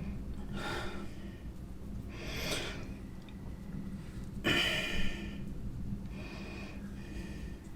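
A man breathing and sniffing close to the microphone, four breaths a second or two apart, over a steady low hum.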